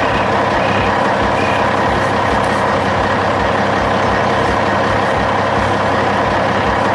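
Dump truck engine running steadily, with a low, regular throb.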